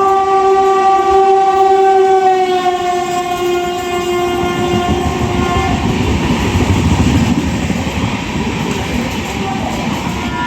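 Indian Railways WAP-7 electric locomotive's air horn sounding one long two-note blast of about six seconds. As the horn ends, the rumble and wheel clatter of the train running on the rails takes over.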